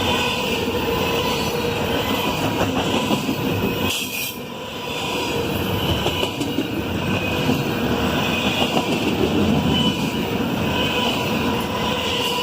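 Norfolk Southern freight train rolling past, with steady wheel-on-rail noise and a faint squeal from the wheels. The sound dips briefly about four seconds in.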